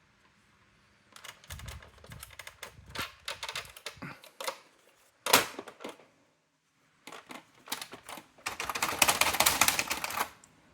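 Brother AX-425 electronic daisywheel typewriter printing: runs of quick clacking strikes, one louder clack about five seconds in, then a fast, dense run of strikes near the end.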